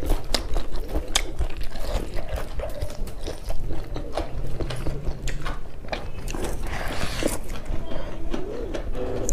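Close-miked eating sounds of people eating rice and beef curry with their hands: wet chewing and lip-smacking, with sharp mouth clicks at an uneven pace.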